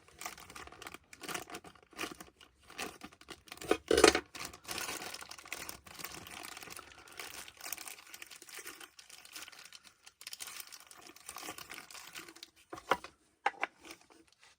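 Plastic packaging crinkling and rustling as it is handled and pulled open, with irregular bursts, the loudest about four seconds in, then a few light clicks near the end.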